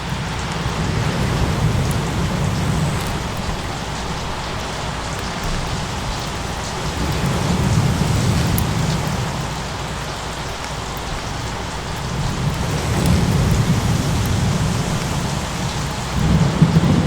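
Steady rain with rolling thunder: the deep rumble swells and fades about four times, loudest near the end.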